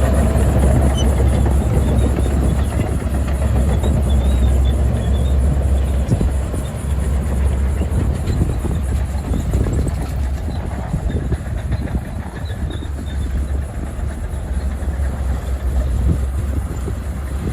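Heavy earth-moving machinery's diesel engine running steadily with a low drone, over irregular metallic clanking and rattling.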